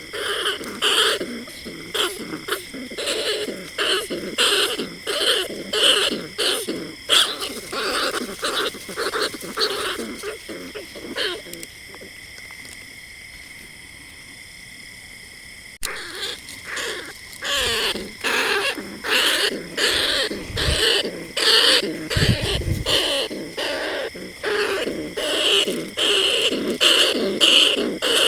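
Bandicoot rat calls played as a lure: short cries repeated about twice a second, breaking off for about four seconds midway, then starting again. A low bump or two sounds near the end.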